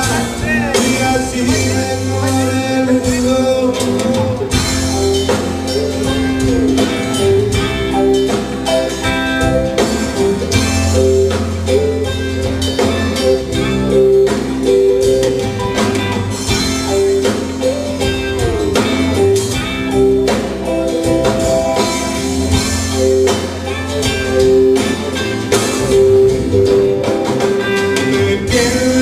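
Rock band playing live, with guitars carrying a mostly instrumental passage over drums.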